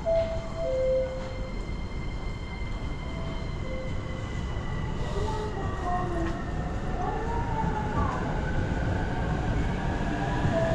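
Electric commuter train running in a station: a steady rumble with a thin whine that slowly falls in pitch, as an electric train's motors do while it slows.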